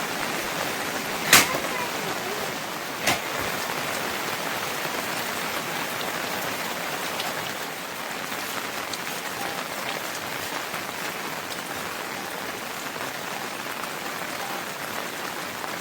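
Steady rain falling and pattering on surfaces. Two sharp knocks cut through it, one about a second in and a quieter one under two seconds later.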